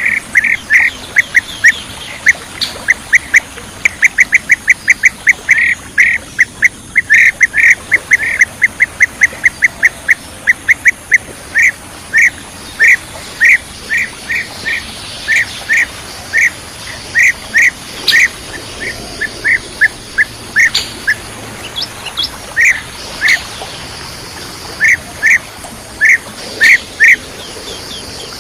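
Bee-eater calls: a long series of short, loud, identical chirps, about four a second at first, then slower and more spaced out, with brief pauses.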